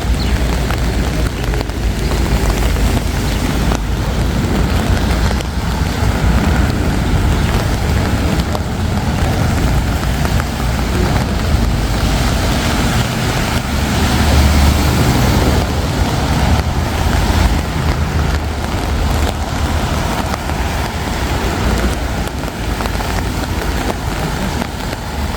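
Wet city street ambience: a steady rush of traffic with rain, swelling briefly as a vehicle passes about halfway through.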